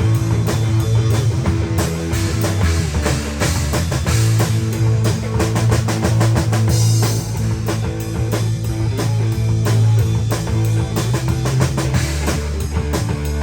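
Rock band playing an instrumental passage: drum kit with bass drum, guitar and bass.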